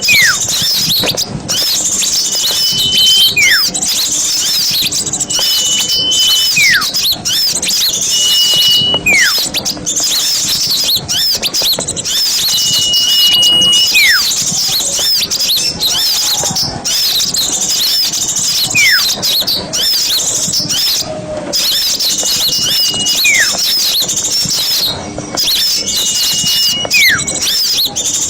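A dense chorus of small songbirds chirping rapidly, recorded for use as a bird-lure call. About every two to four seconds a whistled call holds a high note, then drops in a quick downward slide.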